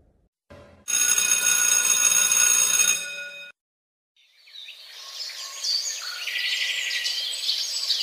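School bell ringing for about three seconds. After a short pause, birds start chirping and keep going.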